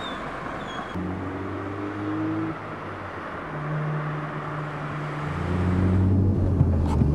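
Peugeot RCZ R's turbocharged 1.6-litre four-cylinder engine droning at a steady pitch, heard from the cabin. The pitch changes in steps a few times, and it gets louder near the end. It starts after about a second of road and tyre noise.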